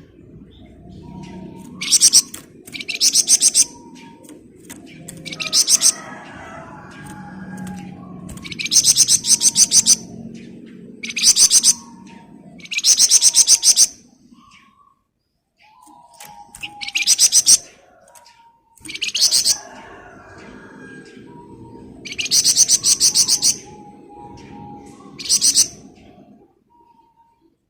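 Flamboyan songbird giving its dense, buzzy 'ngebren' trill: about nine high, rapidly pulsed bursts, each half a second to a second and a half long, separated by short pauses, with softer chirps between them. A low steady hum runs underneath.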